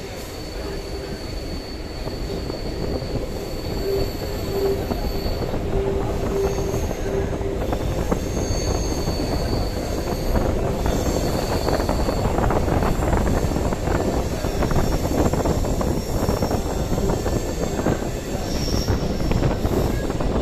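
Electric suburban train rolling along the track, heard from on board: the wheels squeal in thin high tones that come and go over a steady rumble and rattle of wheels on rails. The running grows louder over the first dozen seconds or so, then holds.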